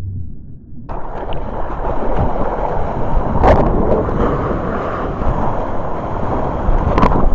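Ocean surf and wind on the microphone. The sound is a muffled low rumble until about a second in, then turns abruptly into a loud rushing noise with a few sharp hits.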